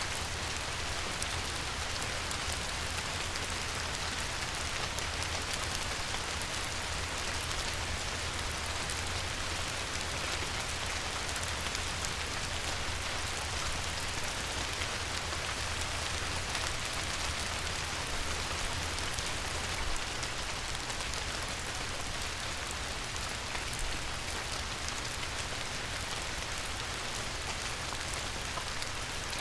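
Light rain falling steadily on a river, a dense, even hiss of many small drops with a low rumble underneath.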